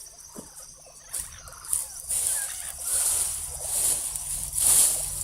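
Campfire of dry leaves, lit with cooking oil, crackling and hissing as it burns. A few sharp pops come early, then the hiss and crackle grow louder about two seconds in.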